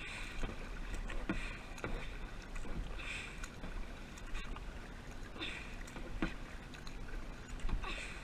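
Kayak paddle strokes: the blades dipping and splashing into the water in a repeated rhythm, roughly one splash every one to two seconds, with a few short knocks between them.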